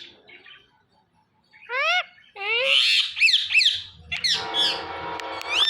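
Ringneck parrot calling: after a brief lull, a couple of rising squawks and then a quick run of high chirps and squawks. From about four seconds in, steady held background music tones come in under further chirps.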